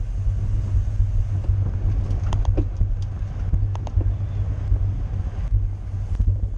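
Wind buffeting the microphone of a camera riding along in a bicycle criterium race, a steady low rumble. A few brief sharp clicks sound about two to four seconds in.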